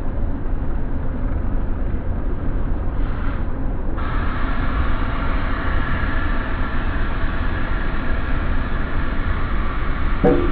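Drilling rig machinery running steadily: engine and compressor with a constant low rumble. A higher-pitched layer is missing for the first few seconds and comes back about four seconds in, and there is a brief pitched squeak near the end.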